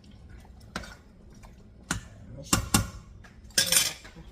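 Kitchen utensils knocking against a cooking pot: a few separate sharp clacks, two of them in quick succession, then a short clatter near the end.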